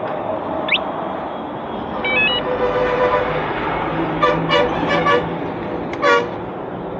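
Road traffic noise with vehicle horns honking: a short stepped horn tune about two seconds in, a quick run of short honks around four to five seconds, and one more honk near the end.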